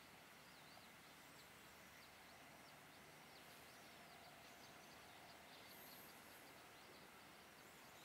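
Faint, quick high chirps and twitters of small songbirds, many short calls in a row, densest in the middle, over a near-silent background hiss.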